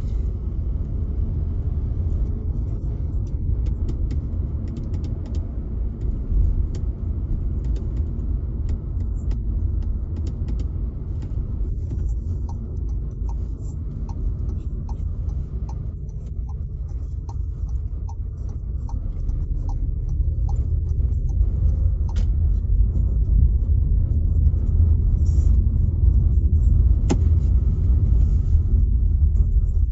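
Car cabin road noise in the rain: a steady low rumble from the car driving on wet roads, with scattered sharp clicks of raindrops on the windshield. A regular light ticking runs through the middle stretch, and there is one louder click near the end.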